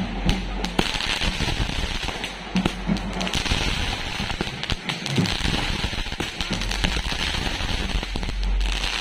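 Fireworks going off in a rapid, unbroken string of bangs and crackles as aerial bursts explode overhead.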